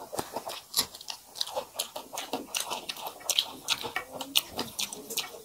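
Close-miked chewing and biting by two people eating a rice meal by hand, with raw green chillies among the food: many short, irregular crunches over wet chewing.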